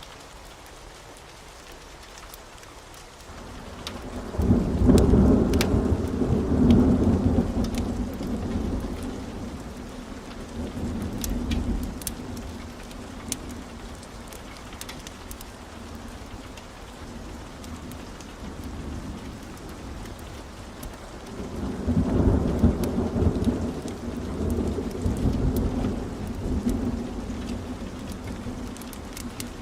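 Steady rain with two long rolls of thunder: the first builds about four seconds in and rumbles on for several seconds, the second starts about twenty-two seconds in and rolls away more slowly.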